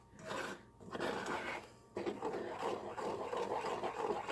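A spoon stirring and scraping through a thick mixture of melted shortening, peanut butter, cornmeal and oats in a pan on the stove. The scraping comes in short spells at first, then runs on steadily from about halfway in.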